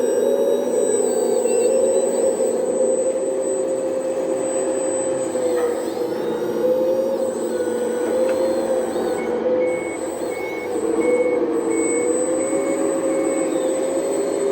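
Engine sound of a 1/14 scale radio-controlled truck or earthmoving machine, running steadily with a pitch that wavers slightly. About nine seconds in, a reversing beeper starts and beeps at an even pace.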